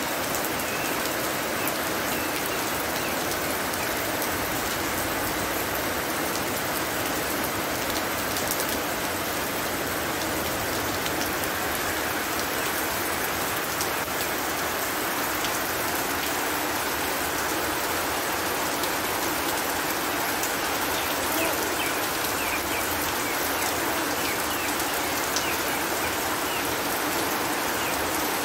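Heavy rain pouring steadily onto standing water and wet ground: an even, dense hiss with many small drop splashes.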